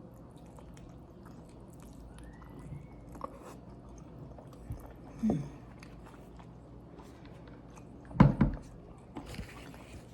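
Close-miked chewing and lip-smacking of a person eating, with small clicks scattered throughout. Two louder mouth sounds stand out, about five seconds in and just after eight seconds.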